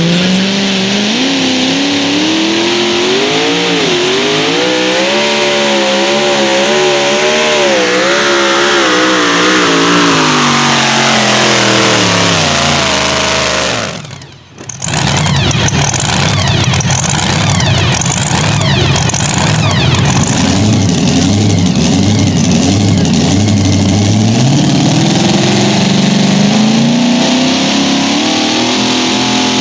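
Competition pulling vehicle's engine running at high revs under load, its pitch wavering up and down, then falling as the run winds down. After a brief dropout about halfway through, another engine runs hard, its pitch climbing again near the end.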